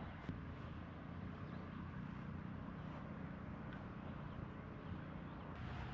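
Motorcycle engine running steadily, a low drone.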